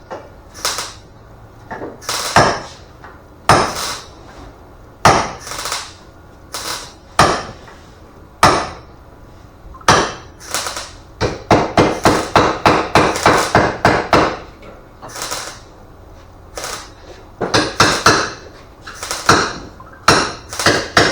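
Hand hammering: single sharp blows about a second apart, then a fast run of quick strikes, then a few more spaced blows and a short burst of strikes near the end.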